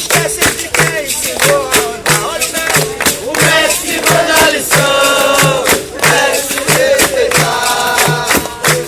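Capoeira music: berimbaus and hand percussion with a steady low beat about one and a half times a second, under a group of voices singing together.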